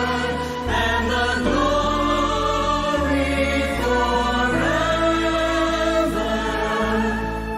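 Choir singing with instrumental accompaniment, in slow held chords that change every second or two over steady low bass notes.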